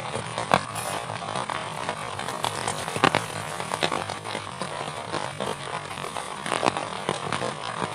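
Heavy rain falling steadily, with frequent irregular sharp drop hits.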